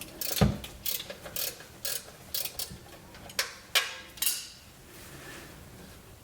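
Metal clicks and knocks of a wrench working a 14 mm oil-pan drain bolt loose, about two a second, with a heavier knock about half a second in; they stop a little past the middle.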